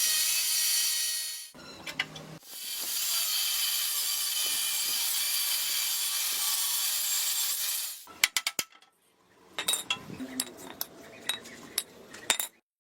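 A handheld power tool running with a steady high-pitched whine, working on metal parts. It stops briefly once and then again for good about two-thirds of the way in, after which metal parts clink and tap sharply.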